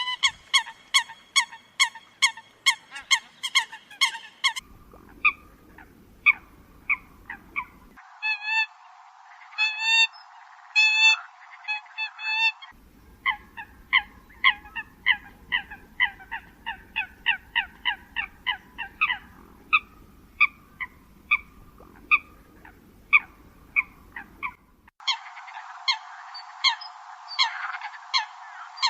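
Eurasian coots calling: short, sharp, honking calls repeated in quick series, about two to three a second. Several recordings are spliced together, so the background hiss and tone change abruptly at each cut, a few times in the stretch.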